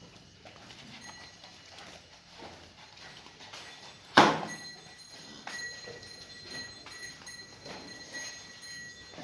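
Gir cow's hooves shuffling and knocking on a hard floor, with one loud knock about four seconds in.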